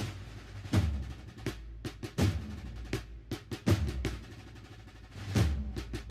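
Band drums playing a slow, uneven processional beat: deep bass-drum strokes under sharper snare strokes.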